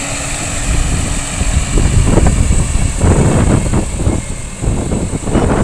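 Eicher 557 4WD tractor's 3300 cc engine running, a low rumble that turns louder and uneven from about a second in.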